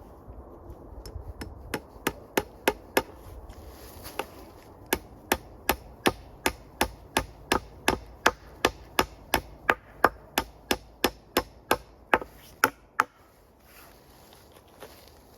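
Hammer driving a nail into a wooden pole: a long, even run of sharp strikes, about three a second, that stops about two seconds before the end.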